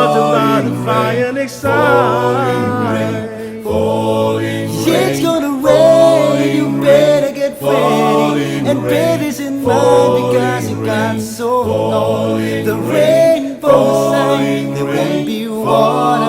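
An a cappella vocal group singing a gospel song in close harmony, with a low bass voice holding sustained notes beneath the higher parts and no instruments.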